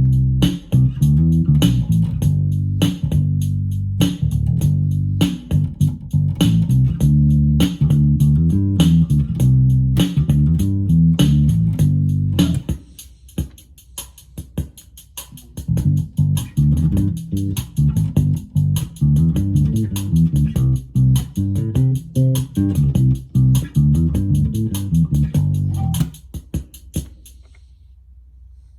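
Bass guitar played through a Roland Micro Cube Bass RX amp, improvising a bassline over the amp's built-in rhythm box drum pattern. About halfway through, the bass drops out for a few seconds, leaving the drum beat alone, then comes back in. Near the end the bass stops and the beat cuts off a second or so later.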